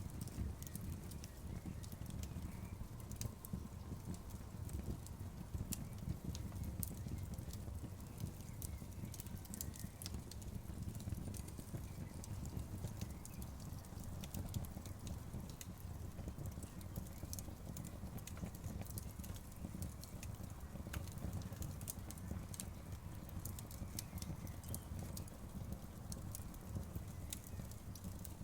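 Outdoor bonfire crackling: many scattered sharp pops and snaps over a steady low rumble of the burning wood.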